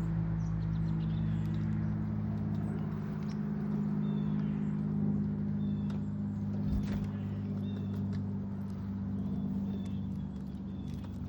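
A steady low mechanical hum, like a nearby engine or motor running, fills the background, with faint short bird chirps repeating over it and a few light clicks.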